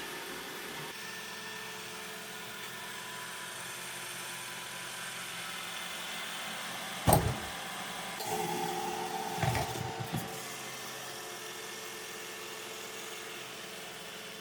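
Robot vacuum cleaner running with a steady whir of its motor and brushes. A sharp knock comes about halfway through, followed a second later by a few shorter knocks and rattles.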